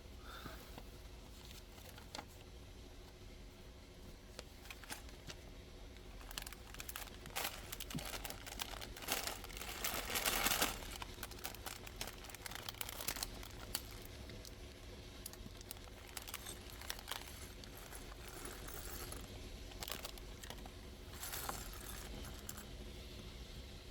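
Handling of a toy building-block set's packaging: plastic crinkling and tearing, with small plastic blocks clicking and rattling. The loudest is a crinkling burst lasting about a second, roughly ten seconds in.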